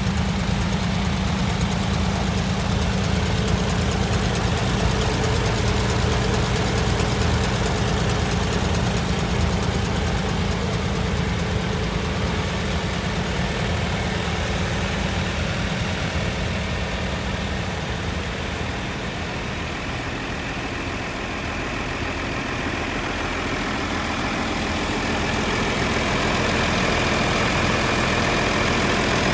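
Tractor engine idling steadily, easing off slightly about two-thirds of the way through before settling back.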